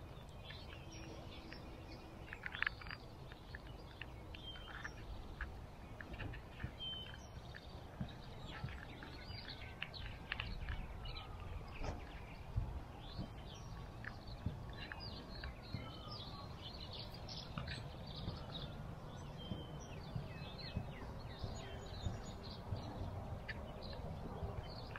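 Many small birds chirping and calling with short, high notes scattered throughout, over a low steady rumble.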